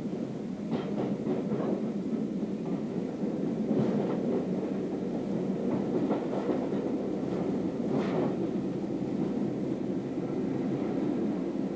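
Hastings diesel-electric multiple unit heard from inside a carriage while running at speed: a steady rumble of wheels on rail, with a few scattered sharp clicks as the wheels pass rail joints.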